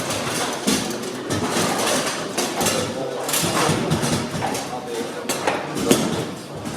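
Bonzini table-football game in play: irregular sharp clacks and knocks of the ball being struck by the figures and hitting the table walls, with rods banging, over voices in the hall.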